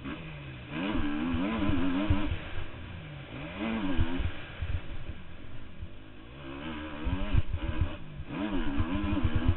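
Motocross motorcycle engine revving hard, its pitch swinging up and down several times as the throttle opens and closes. Short low thuds come through underneath.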